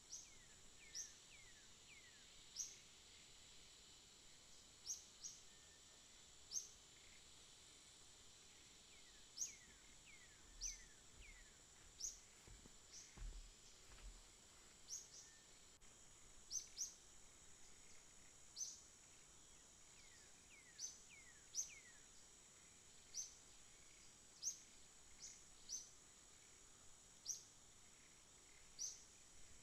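Forest ambience: a steady high insect drone under a bird repeating short, sharp high call notes every one to two seconds, some trailed by downward-sliding notes. A few faint low thuds about halfway through.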